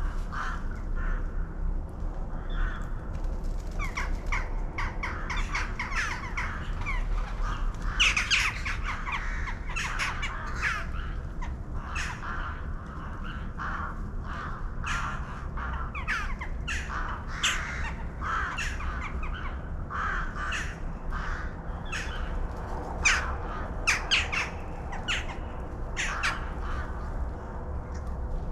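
A flock of birds calling: many short, harsh calls overlapping without a break.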